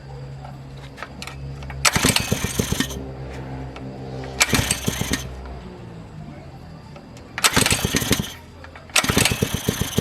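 Small gasoline engine of a water pump running, revved hard in four short bursts of about a second each, with quieter, steady running between them.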